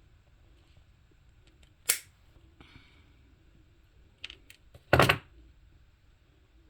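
Small snips cutting through cotton buds: two sharp snaps about three seconds apart, the second louder, with a few light clicks just before it.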